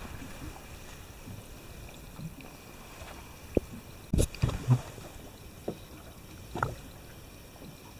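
Water lapping against a small boat's hull, with a few short knocks and splashes about halfway through and again near the end.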